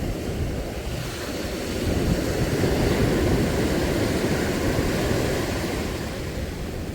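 Sea surf washing ashore with wind buffeting the microphone; the surge swells about two seconds in and eases off after about five seconds.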